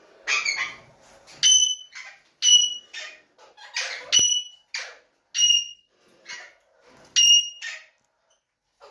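Alexandrine parakeets screeching: about ten short, shrill calls, roughly one a second, several with a piercing whistle-like tone.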